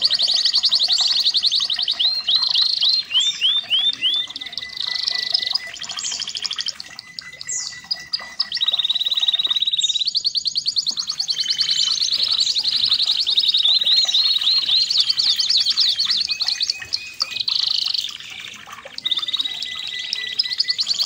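Red canary singing a long, continuous song of rapid trills and rolls, broken by runs of separate down-sweeping whistled notes, all high-pitched.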